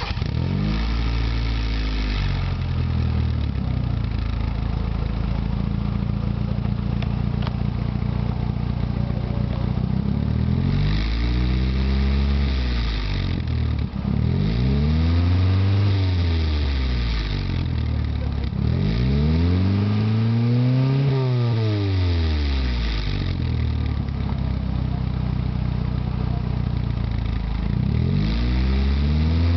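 Mitsubishi Colt CJ4A's 4G92 inline-four engine, heard through an aftermarket sport exhaust, starting and settling into idle. It is then revved and let fall back to idle about four times: near ten seconds, fourteen, eighteen, and again near the end.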